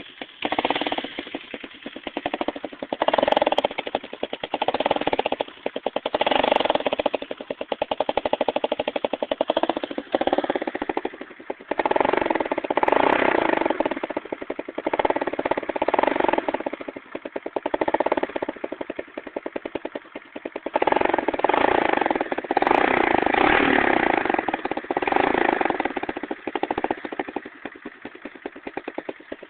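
1987 Honda TRX200 ATV's single-cylinder four-stroke engine breathing through a makeshift pop-can exhaust pipe, revved in several long bursts that drop back toward idle between them.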